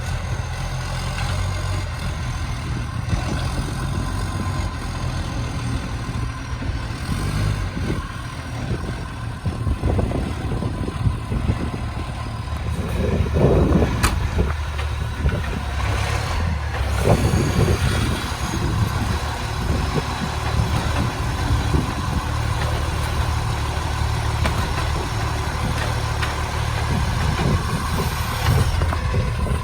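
Garbage truck's diesel engine running with a massive exhaust leak, roaring steadily. It grows louder for a few seconds midway, with one sharp knock.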